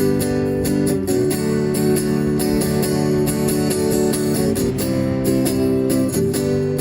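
Acoustic guitar strumming chords in an instrumental break between sung lines, the strokes keeping a steady rhythm.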